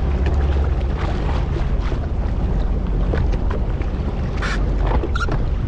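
Wind rumbling on the microphone over open water, with a few short clicks and splashes, the loudest about four and a half seconds in.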